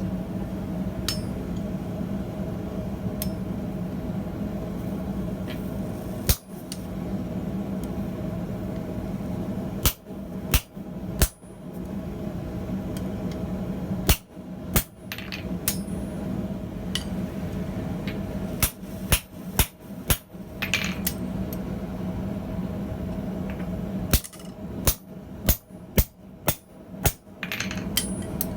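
Hammer blows on hot steel at the anvil while forging blacksmith tongs, coming in short irregular groups: one stroke, then clusters of two to six strokes with pauses between. A steady roar runs underneath.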